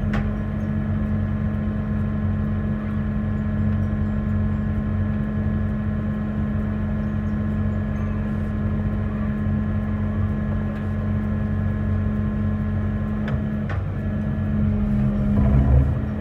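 Engine-driven water jet pump running steadily at constant speed, powering the water jet that sinks a piling. It starts at the opening, wavers briefly near the end and then picks up again.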